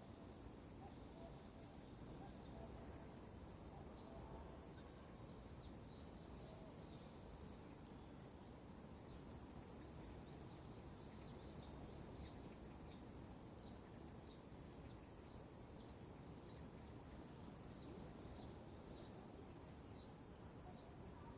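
Faint birdsong: many short, high chirps scattered through, over a steady low background rumble.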